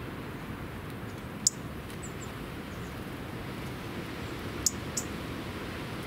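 Short, sharp, high-pitched bird calls from a small songbird: one about a second and a half in, a few faint chirps just after, and two close together near the end, over a steady outdoor background of hiss and low rumble.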